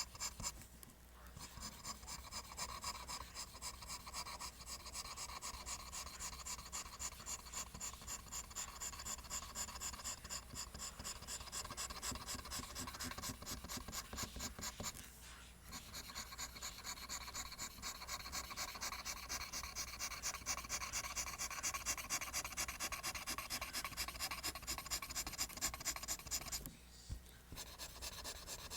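Pencil drawing lines on paper: quick, regular back-and-forth scratching strokes, a few a second, broken by three brief pauses as the pencil lifts.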